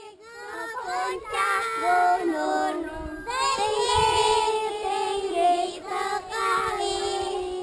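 A group of children singing together, several voices overlapping on held notes.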